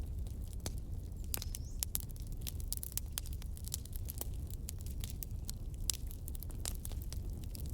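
Wood fire crackling, with frequent irregular sharp pops and snaps over a steady low noise of the burning.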